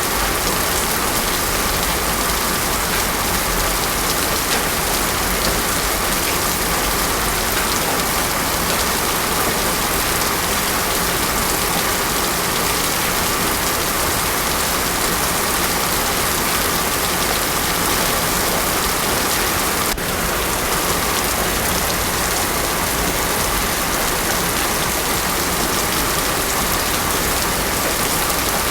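Heavy rain falling steadily, an even dense hiss with no thunder.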